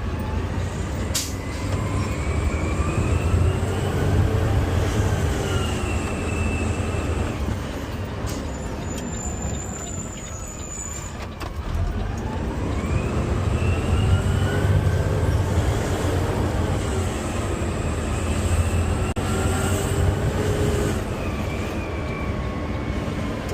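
Garbage truck's diesel engine revving up and easing back down twice in long swells, with a whine rising and falling along with it, typical of the engine speeding up to drive the hydraulic arm that lifts and empties a cart.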